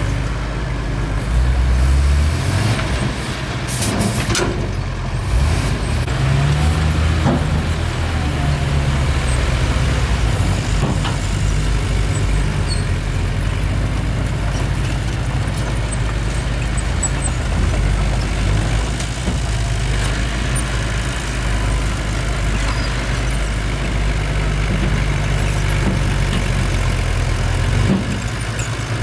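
Bulldozer's heavy diesel engine running, its pitch shifting through the first several seconds before settling to a steady drone. There are a few sharp metallic clanks about four seconds in.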